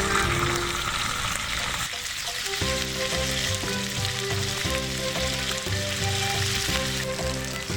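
Food frying in a pot over a campfire, a steady sizzle. Background music with a regular beat comes in about two and a half seconds in.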